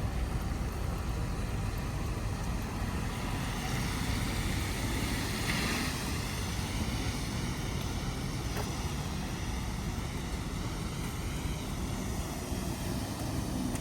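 Steady city traffic rumble, with a passing vehicle's tyre hiss on wet pavement swelling and fading about midway.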